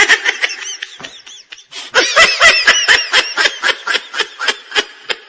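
High-pitched laughter in quick, even ha-ha pulses, about six a second. A short burst comes at the start, then a longer run from about two seconds in.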